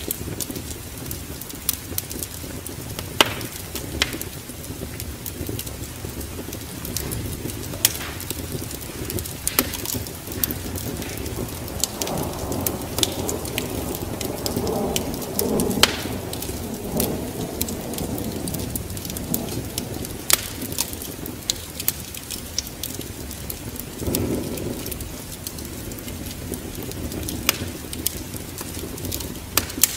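Wood fire crackling with sharp pops in a fireplace over steady rain, with a low roll of thunder swelling a little before the middle and a shorter one about two thirds of the way through.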